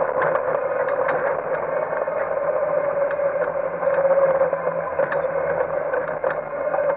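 Competition car's engine running at a steady, fairly low speed, heard inside the stripped, roll-caged cabin, with light rattles and clicks from the car.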